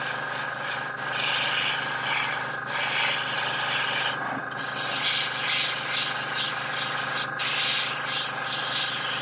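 Airbrush spraying primer at about 20 psi in light dry passes: a hiss that swells and fades, breaking off briefly a few times, most clearly about four seconds in.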